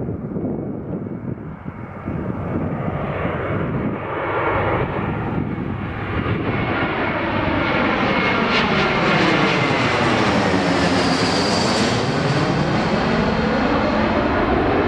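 Airbus A321-200 jet airliner on final approach flying past, its engine noise growing louder. A sweeping, phasing tone dips and then rises as the aircraft passes closest, about eleven seconds in.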